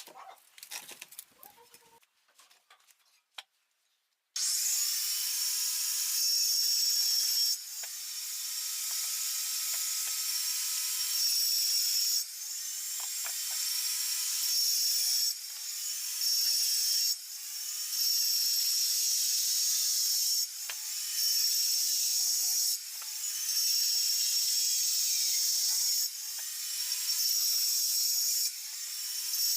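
A power cutting tool starts suddenly about four seconds in and runs in a string of cuts a few seconds long, each broken by a short dip. It makes a harsh, high-pitched hiss with a faint whine.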